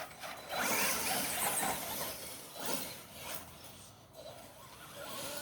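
Electric radio-controlled truck driving, its motor whining and the car clattering over the ground, louder in the first couple of seconds and dropping away about four seconds in.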